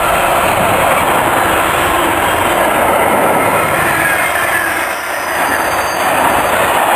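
Wagons of an intermodal container freight train rolling past, a steady noise of wheels on rail that eases briefly about five seconds in.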